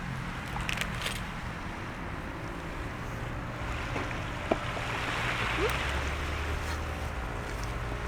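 Sea waves washing onto the shore, one swell building and fading midway, over a low wind rumble on the microphone. A few light clicks and one sharp pop about four and a half seconds in.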